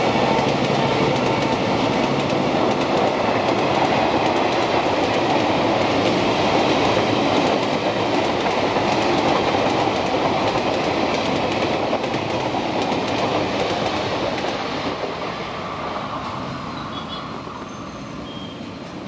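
Passenger coaches of an express train running past on the track: a steady rumble with wheel clatter over the rail joints, fading gradually over the last few seconds as the train draws away.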